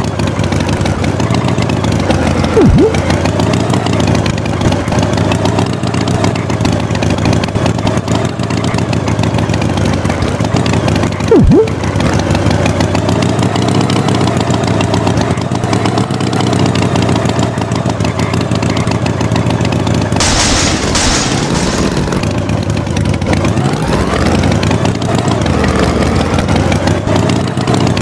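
Tractor engine running steadily, its pitch wavering slightly. Two brief sharp downward sweeps cut in, about 3 and 11 seconds in, and a short hiss comes about two-thirds of the way through.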